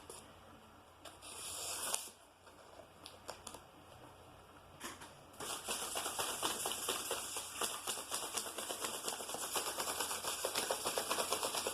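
Paper and tape of a homemade paper NERF rocket being handled: soft rustling at first, then a fast, steady crackle of small clicks from about five seconds in.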